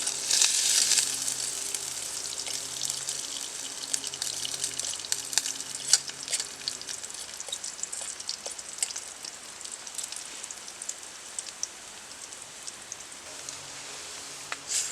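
Onions and bell peppers with crushed red pepper sizzling in a frying pan, a steady high hiss with scattered crackling pops. It is loudest at the start and settles to a quieter sizzle about halfway through.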